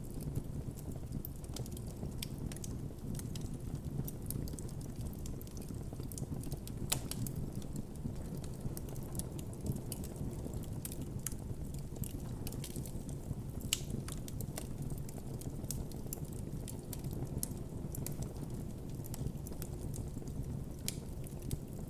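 Wood campfire burning with a steady low rumble of flames and frequent irregular crackles and sharp pops.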